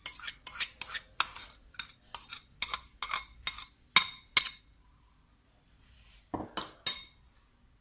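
A spoon clinking against a dish, in a quick run of sharp clinks about three a second that stops about four and a half seconds in. Two or three more clinks come near the end.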